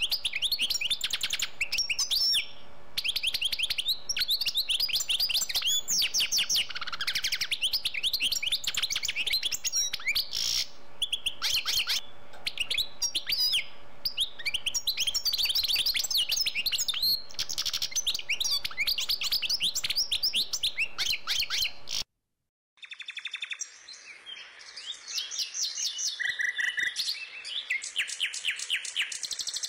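A small songbird singing a fast, continuous run of high chirps and trills. It breaks off briefly about 22 seconds in, then goes on more faintly.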